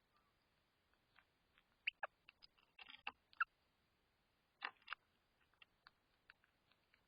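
Birds at a feeding spot: scattered sharp clicks and ticks, with a few brief chirp-like notes about two seconds in, a busier cluster around three seconds and another pair of louder sounds near five seconds, over near silence.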